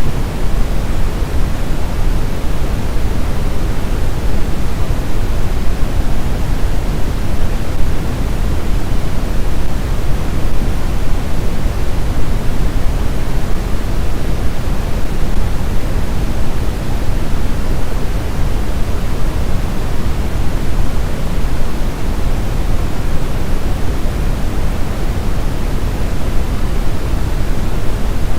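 Steady synthetic sleep noise, a constant hiss weighted toward the low end like pink noise, unchanging throughout.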